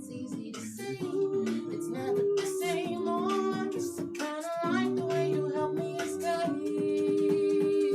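A group singing melodically, with a female lead voice over sustained accompanying notes and some guitar.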